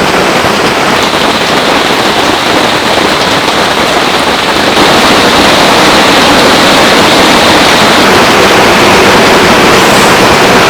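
Heavy rain pouring in a dense, steady hiss, stepping slightly louder a little under halfway through.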